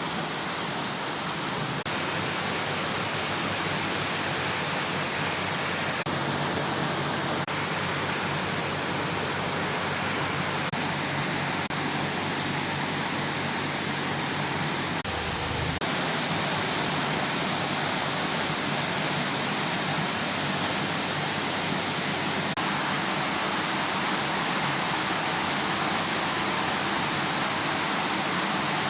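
Heavy rain pouring, with floodwater running in the streets: a steady, even rush of water. A brief low rumble comes about halfway through.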